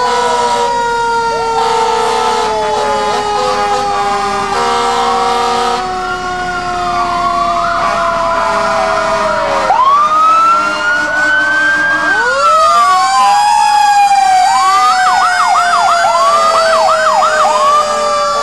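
Several fire truck sirens sounding at once. One holds a long tone that slowly falls in pitch throughout, while others wail up and down, switching to a fast yelp about fifteen seconds in.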